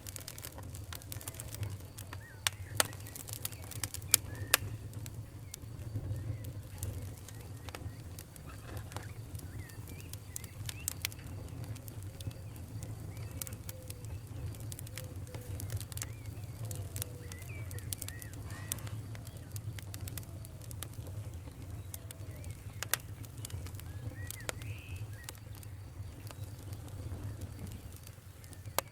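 Wood fire in a fireplace crackling, with irregular sharp pops and snaps over a steady low rumble of the flames. Several of the loudest pops come close together a few seconds in.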